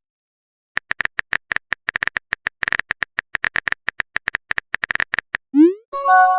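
Rapid phone-keyboard tapping sounds, a quick run of short clicks, followed near the end by a rising swoop and a short chiming chord, the sound of a chat message being sent and arriving.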